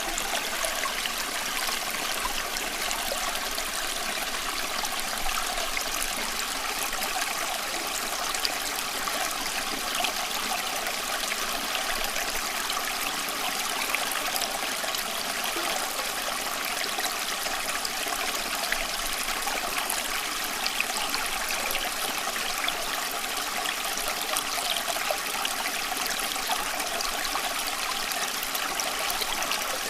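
Steady flowing water, an even rushing and trickling hiss with little low rumble and no change in level.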